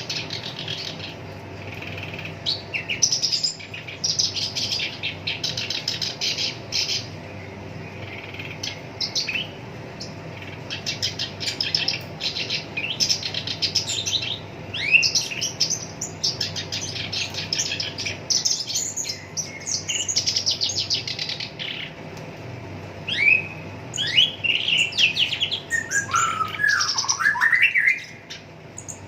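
Black-browed reed warbler (Acrocephalus bistrigiceps) singing a fast, harsh chattering song: phrases of rapid repeated notes and rolling trills with short pauses between them. Near the end come more varied notes that swoop lower.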